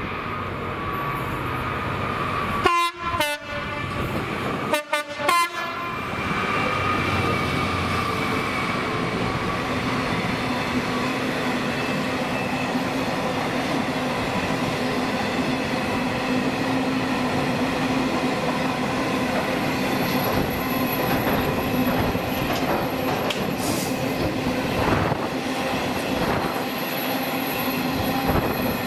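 A Class 66 diesel locomotive passing with a long train of hopper wagons: a steady rumble and clatter of wagon wheels on the rails. There are two brief loud bursts about three and five seconds in.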